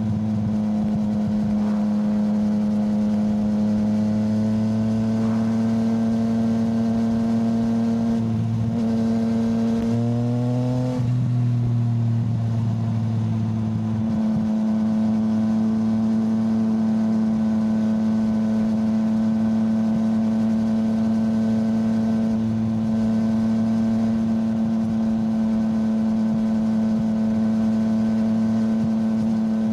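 Yamaha motorcycle engine running at a steady cruise, recorded on board. About ten seconds in, its pitch rises briefly before it settles back to a steady note.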